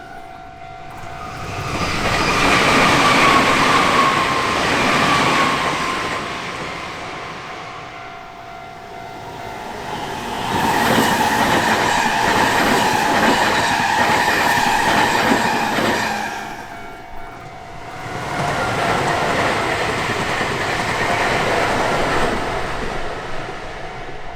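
Nankai Main Line trains passing over a Japanese level crossing, the wheel and rail noise swelling and fading three times with clattering over the rail joints. Under it the crossing's warning signal rings steadily throughout.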